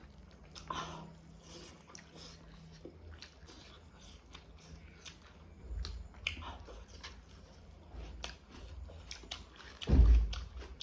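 A person chewing a mouthful of food close to the microphone, with a run of quick, wet mouth clicks and crunching bites. A loud low thump comes near the end.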